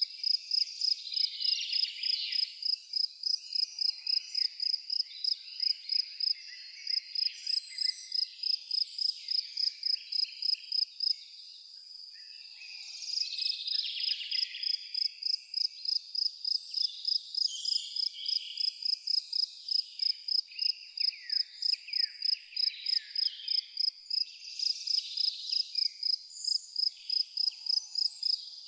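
A cricket chirping in an even, rapid rhythm of about three high pulses a second, pausing briefly near the middle, with birds chirping and twittering around it.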